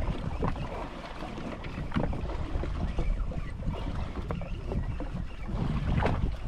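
Wind buffeting the microphone and water slapping against a jet ski's hull at sea, with irregular short splashes and knocks.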